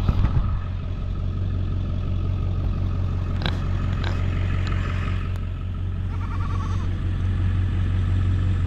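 Motor vehicle engine running steadily, a deep, even rumble, with a couple of sharp clicks about three and a half seconds in.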